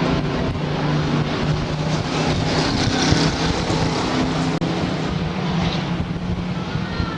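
Racing stock trucks' engines running hard on a dirt oval: a steady drone of engine noise under load.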